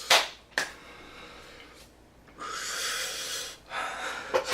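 A man breathing hard through his mouth against the burn of very spicy noodles: two quick sharp sniffs near the start, then a long hissing breath about halfway through.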